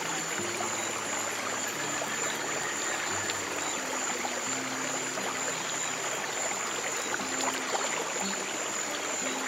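Flowing stream water, a steady rushing and trickling, with soft low music notes held and changing slowly underneath and a thin steady high tone.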